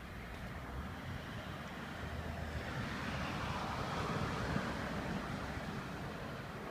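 Airbus Helicopters EC145 T2 flying over, its rotor and twin turboshaft engines heard as a rushing noise that swells to a peak about four seconds in, then eases off.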